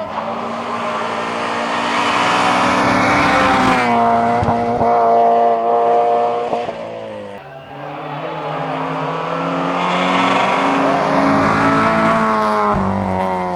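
Citroën Saxo VTS rally car engine revving hard as it accelerates up through the gears. The pitch climbs and falls back at each change, about four seconds in, at a brief lift about seven and a half seconds in, and again near the end.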